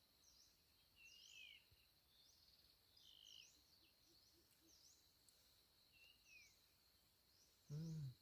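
Faint birdsong: small birds giving repeated short high chirps and down-slurred notes every second or so, over a thin steady high insect drone. A brief human voice near the end.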